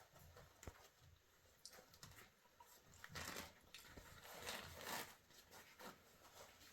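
Faint rustling and crunching, in a few short scrapes: a cluster about three seconds in and another near five seconds.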